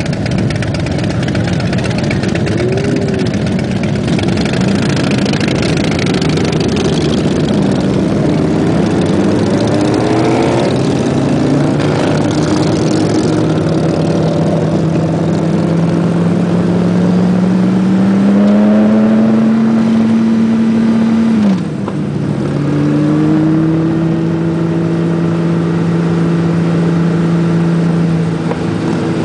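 Touring motorcycle engine pulling away from a stop and accelerating, its pitch rising steadily, then dropping sharply at a gear change about 21 seconds in and holding steady at cruising speed, with wind rushing over the microphone.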